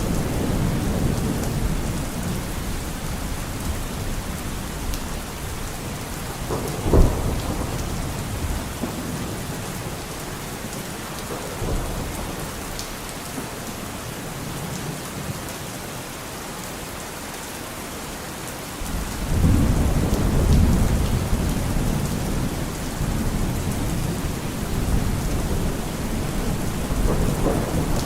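Steady heavy rain with rolling thunder. A sharp crack of thunder about a quarter of the way in is the loudest moment; the rumble then dies away, and a new roll of thunder starts suddenly about two thirds through.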